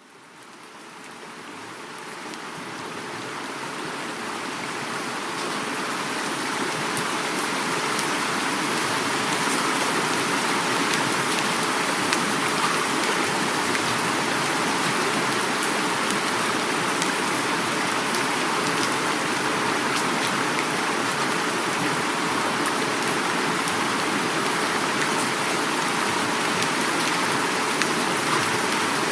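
Heavy rain mixed with a flowing river: a steady, even rush of water with scattered raindrop ticks, fading in over the first eight seconds or so.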